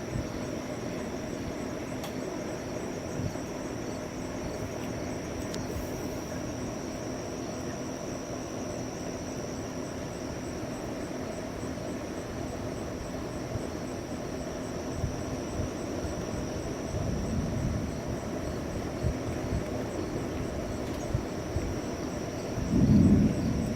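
Distant thunder rumbling during a lightning storm: a low rumble about two-thirds of the way through and a louder one near the end, over a steady low rush of outdoor background noise and a faint steady high whine.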